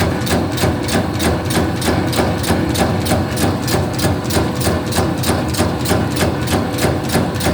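Electric bakso (meatball) forming machine running, its mechanism clacking in a fast, even rhythm of about five knocks a second over a steady motor hum.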